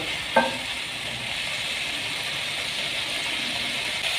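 Minced meat and potato wedges sizzling in a frying pan: a steady frying hiss.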